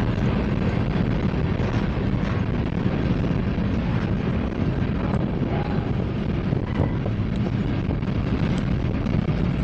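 Covered hopper cars of a freight train rolling past at close range: a steady rumble of steel wheels on the rail, with a few faint clicks and short squeaks. Wind buffets the microphone.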